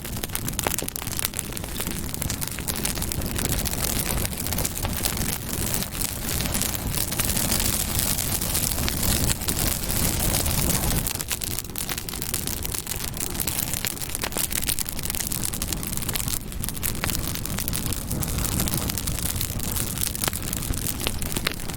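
Campfire burning: a steady rush of flames with many small crackles and scattered sharp pops.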